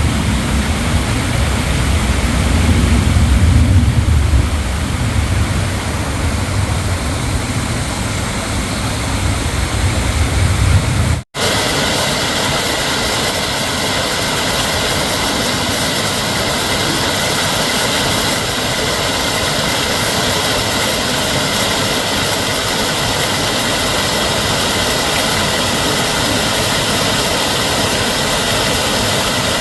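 Steady rushing of a valley stream, with a heavier low rumble in the first part, broken by a momentary dropout about eleven seconds in, then an even hiss.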